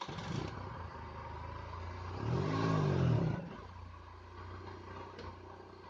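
Engine of a homemade Oka-based buggy running, revving up and back down once about two seconds in.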